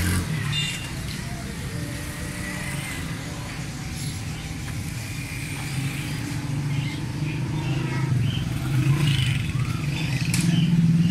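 Road traffic: a motor vehicle's engine running, a steady hum that grows louder over the last few seconds as it comes closer.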